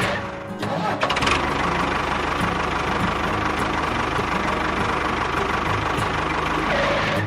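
Engine running steadily with a fast, even chugging beat, like a tractor idling. The sound drops out briefly about half a second in and resumes at about one second.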